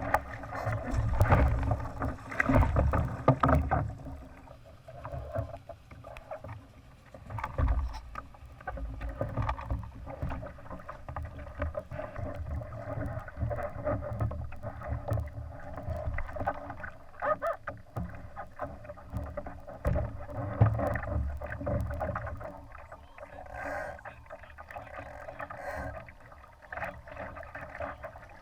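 Wind and water noise aboard a Laser sailing dinghy under way, a continuous rush with gusty surges of low rumble and small splashes and knocks.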